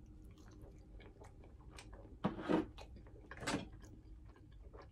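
A person chewing a mouthful of fried food with soft wet mouth clicks, with two louder chews about two and a half and three and a half seconds in.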